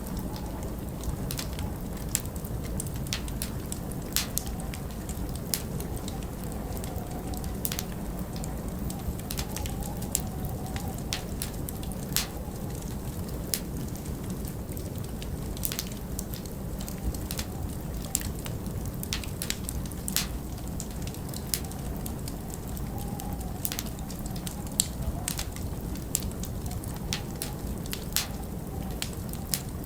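Wood fire crackling, with frequent irregular sharp pops, over a steady low rumble of wind. Now and then a faint wavering howl of wind rises and falls.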